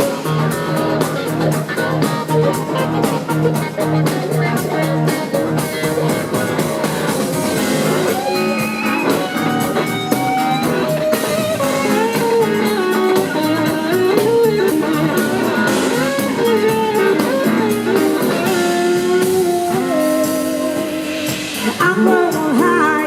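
Live blues-rock band playing an instrumental passage: an electric guitar lead with gliding, bending notes over drums and the rest of the band.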